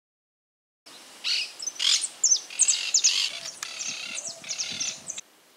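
Birds calling outdoors: a run of short, sharp, high-pitched chirps, some falling in pitch, beginning about a second in.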